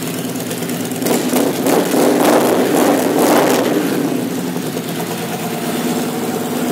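2012 Victory Highball's 106-cubic-inch Freedom V-twin idling, then blipped several times by the throttle from about a second in, before settling back to a steady idle.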